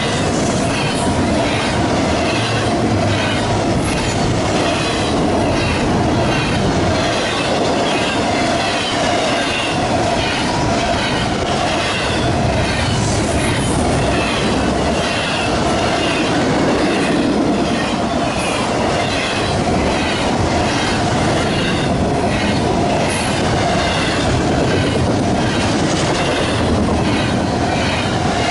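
Freight train rolling past at steady speed: a continuous rumble of the cars with rapid, repeated clatter of wheels over the rail and a steady screech from the wheels.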